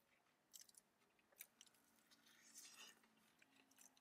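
Near silence with faint chewing of a sandwich: scattered small mouth clicks and a short crackle about two and a half seconds in.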